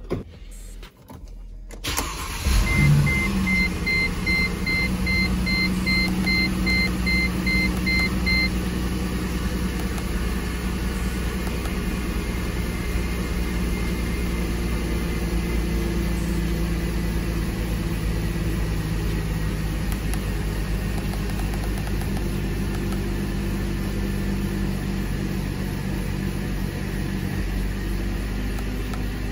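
2007 Mercedes C230's V6 engine starting about two seconds in, then idling steadily while it warms toward the 45 °C operating temperature needed to check the transmission fluid level. An electronic warning beep repeats about twice a second for roughly six seconds after the start.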